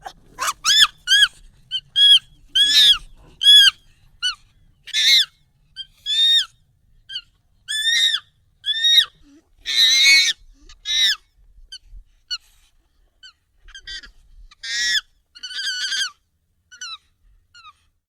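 Monkey calls, sped up and pitched up: an irregular series of short, high, arching calls, the loudest and harshest about ten seconds in.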